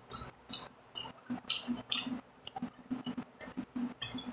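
A person chewing a bite of raw green vegetable close to the microphone: a run of short, wet smacking and crunching mouth sounds, about two a second.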